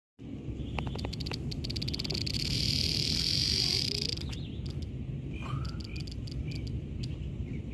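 Cicada's distress buzz as a cicada killer wasp seizes it: rapid clicks that speed up into a loud, steady high buzz, then cut off about four seconds in. Short bird chirps follow over a low background rumble.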